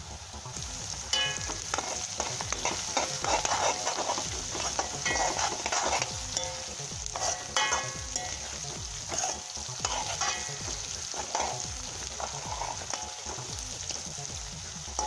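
Sliced onions and garlic sizzling in hot oil in a metal kadai, stirred with a metal spoon that scrapes and clinks against the pan again and again.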